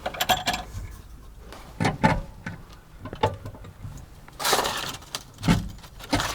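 Scattered clicks, knocks and rattles of hard objects being handled, with a brief rushing noise about four and a half seconds in.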